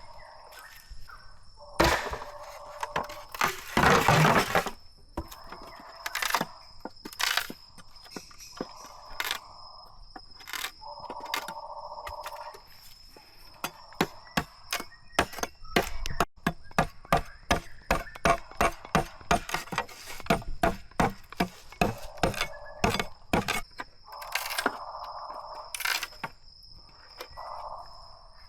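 Machete chopping and splitting bamboo: sharp cracking strikes, with a fast run of light strikes, about four a second, in the middle, between rasping passes of about a second each.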